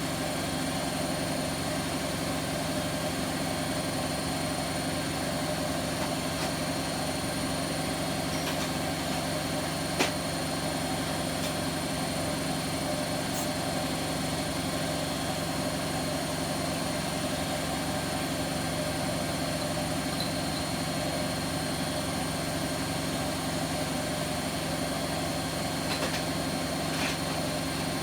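Bosch Vario Perfect washing machine running its spin with a steady hum, the drum turning at constant speed, with one sharp click about ten seconds in. The machine is being tested for worn drum bearings, and no clear bearing rumble stands out.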